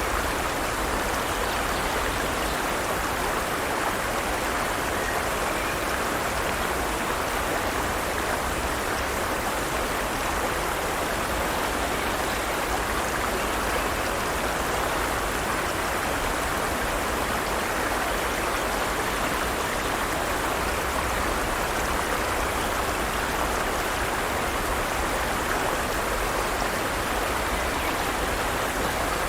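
Forest stream running: a steady, even rush of flowing water that holds level throughout.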